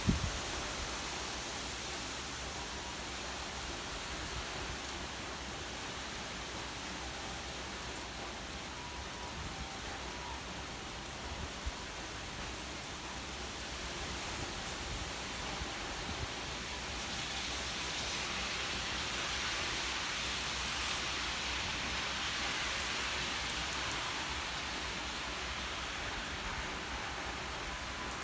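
Steady rain from a typhoon, growing a little heavier for several seconds past the middle.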